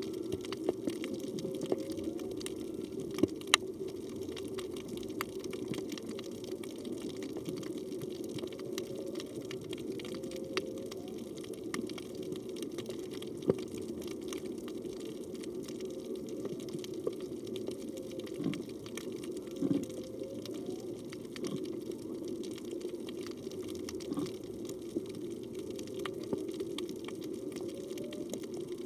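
Underwater reef ambience heard through a phone's waterproof housing: a steady low rush of moving water, crackling with many sharp clicks, with faint short rising tones every few seconds.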